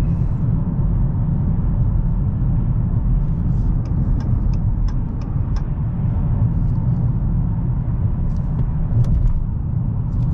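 Steady low rumble of a 2022 Dodge Challenger Hellcat's supercharged 6.2-litre V8 and tyres as the car cruises on the road.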